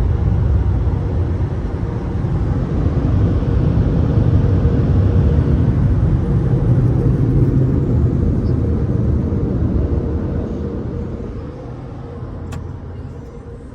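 Hodge/AVW car wash tunnel machinery running with a loud, steady low rumble, fading from about ten seconds in. There is a short click near the end.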